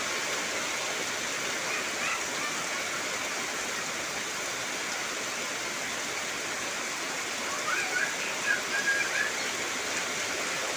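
Heavy rain falling steadily on trees, an even hiss. A few short high whistled notes cut through briefly about two seconds in and again in a cluster about eight seconds in.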